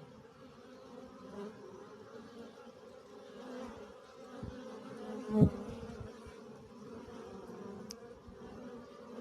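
Honeybees buzzing steadily around the hive entrance as foragers fly in carrying pollen. About halfway through there is one brief, much louder buzz.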